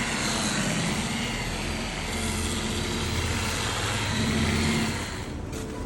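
Power buffer running against a kayak hull during final buffing: a steady motor hum under a rushing, grinding noise that falls away about five seconds in.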